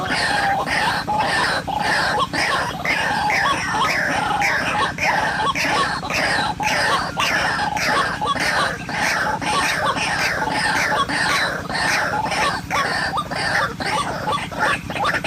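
White-breasted waterhen (ruak-ruak) calls: a rapid, continuous run of short repeated notes, about three a second, each falling slightly in pitch.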